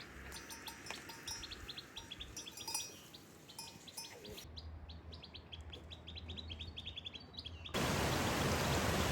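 Small birds chirping in quick runs of short repeated notes. Near the end the sound cuts suddenly to a loud, steady rushing hiss.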